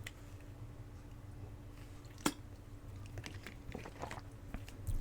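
Faint scattered clicks over a low steady hum, with one sharper click about two seconds in.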